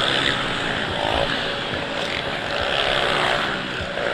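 Dirt bike engines running and revving on a motocross track, their pitch rising and falling over a steady wash of noise.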